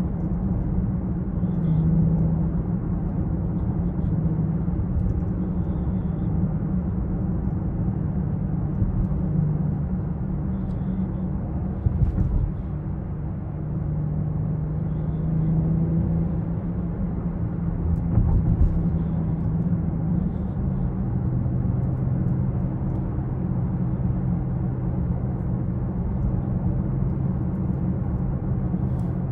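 2020 BMW X6 xDrive40i on the move: its turbocharged inline-six and tyre noise make a steady low drone. The engine's pitch shifts a few times and drops a little about twenty seconds in.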